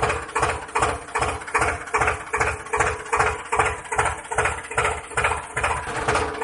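Small motor of a DIY mini tractor and water pump model running steadily, with a hum and a regular pulsing beat about three times a second.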